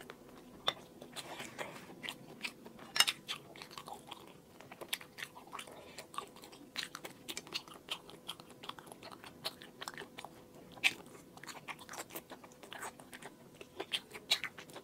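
Close-up chewing and biting of braised pig's trotter: many small, irregular clicks and crunches, with a louder snap about three seconds in and another near eleven seconds.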